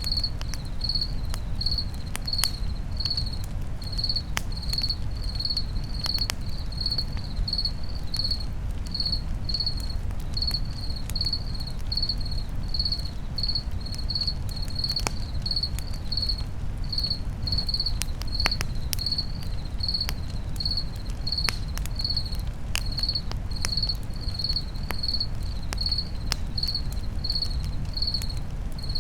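Crickets chirping in a steady rhythm, about two chirps a second, over the scattered crackles and pops of a campfire and a steady low rumble.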